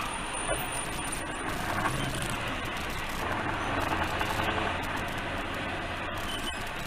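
Steady vehicle and traffic noise, a continuous rumble and hiss without any sharp impact.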